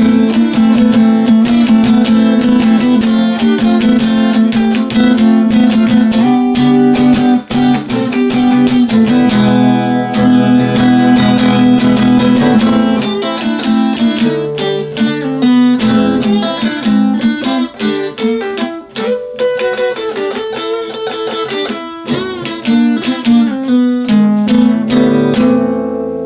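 Strummed acoustic guitar playing the song's instrumental ending, with chords and some picked single notes, fading away near the end.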